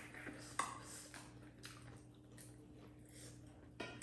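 A person chewing food close to the microphone, with scattered wet clicks and smacks of the mouth, over a faint steady hum.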